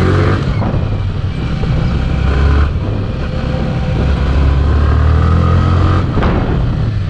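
Yamaha R15 V3's single-cylinder engine running, its steady low hum dropping off about a third of the way in and picking up again a little later.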